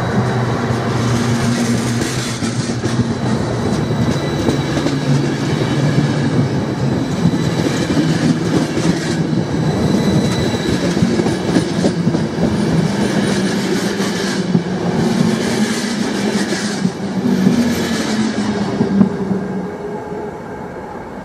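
InterCity passenger coaches rolling past the platform as the train leaves the station, wheels clicking over the rail joints with a steady rumble. The sound fades near the end as the last coach goes by.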